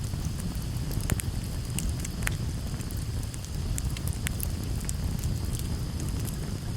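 Campfire burning, its wood crackling and popping in frequent sharp snaps over a steady low rumble.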